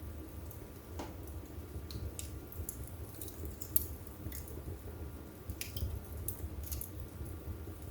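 Wood fire burning in a fireplace: a steady low rumble of flames with irregular crackles and sharp pops from the burning wood, one pop standing out about halfway through.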